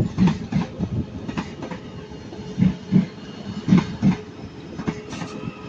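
Passenger train wheels clacking over rail joints and points as it rolls slowly through the station, with low thuds coming in pairs about a third of a second apart over a steady hum.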